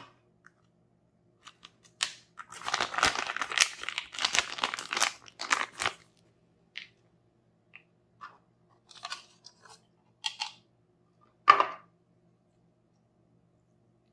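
Crinkly toy packaging being handled and crumpled by hand: a dense run of crackles lasting about four seconds, then a few scattered light crackles and one sharp crackle near the end.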